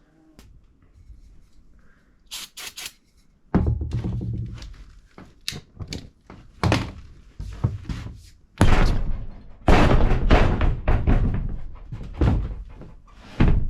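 Heavy thunks and knocks, several in a row, from hands-on work on a tractor's front wheel and tire, with a quick run of sharp clicks about two and a half seconds in.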